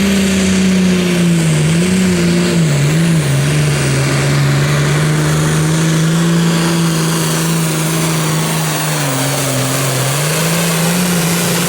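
Super Farm class pulling tractor's diesel engine running at full throttle through a pull. Its pitch sags lower a couple of times under load and recovers, rising again near the end.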